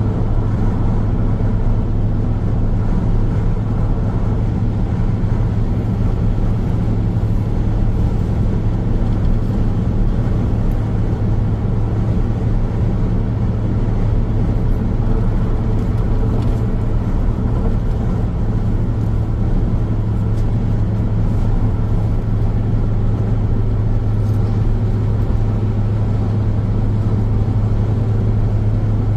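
Car driving along a highway: steady road noise of tyres and engine, an even low drone with no change in speed.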